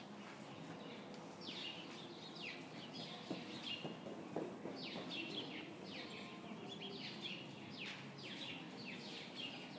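Small birds chirping over and over, in clusters of quick falling chirps, over a low, even background murmur, with a few soft thumps around the middle.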